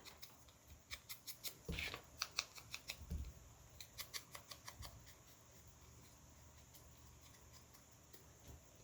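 Scissors snipping paper: a run of small, quick snips that stops about five seconds in.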